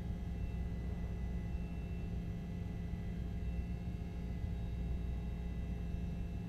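Steady low hum with faint constant tones above it, unchanging throughout.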